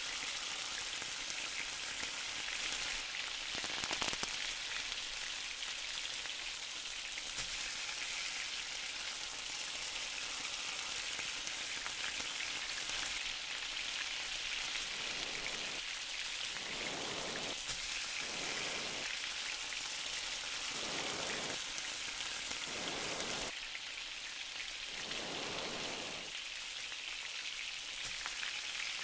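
Onions and diced red bell pepper frying in oil in a nonstick kadai, a steady sizzling hiss. From about halfway through, a series of spatula strokes stirring and scraping through the pan.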